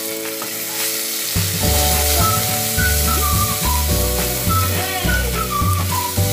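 Onions and tomatoes sizzling in oil in a nonstick wok, stirred with a wooden spatula. Background music plays over it, its bass beat coming in about a second and a half in.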